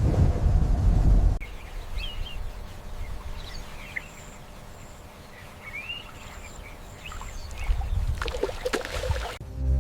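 Outdoor wildlife ambience: a low rumble for about the first second and a half, then a quiet background with scattered short bird chirps. A brief burst of rustling and knocking comes near the end.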